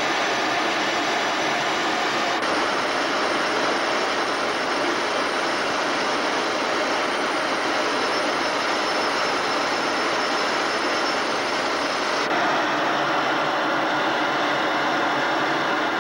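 Steady rushing noise of a jet aircraft in flight. A faint high whine comes in about two seconds in and cuts off abruptly about three-quarters of the way through.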